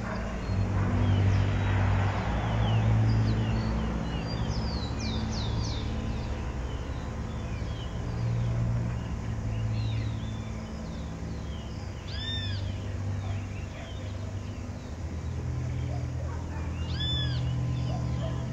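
Birds chirping among garden trees over a low, uneven droning hum, with two longer rising-and-falling calls in the second half.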